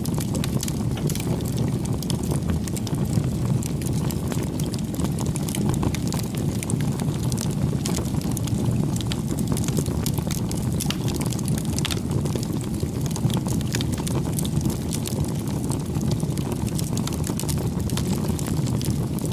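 Wood campfire burning: a steady low rumble of the flames, with frequent small crackles and pops from the burning wood.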